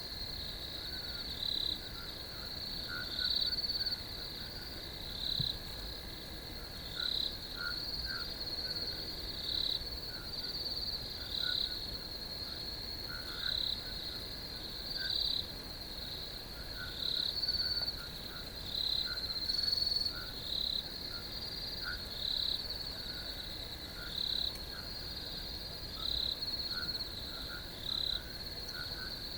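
Crickets chirping in a night chorus: a steady high trill with a louder chirp about every second and a half, and fainter, lower, irregular calls underneath.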